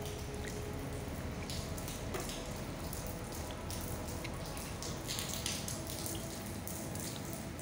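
Rainwater dripping and splashing onto a wet tiled floor: many separate drops over a steady hiss of falling rain.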